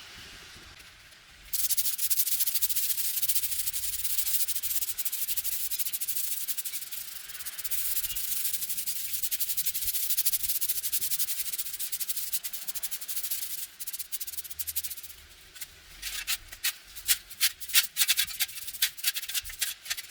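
Rapid rubbing strokes against a hard surface, like scrubbing or sanding, running on without pause from about a second and a half in. Near the end they break into separate, sharper strokes.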